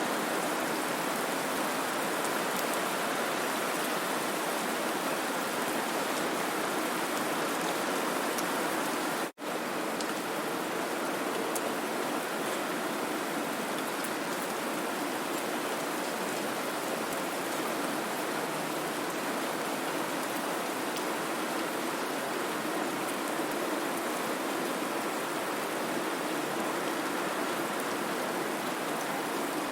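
Steady white-noise hiss with a rain-like rushing texture, even in level throughout. It cuts out for a split second about nine seconds in, a break where the recording loops.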